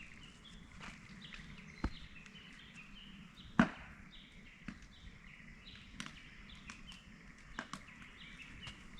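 Outdoor ambience of scattered sharp clicks and snaps, the loudest about three and a half seconds in, over faint high chirping.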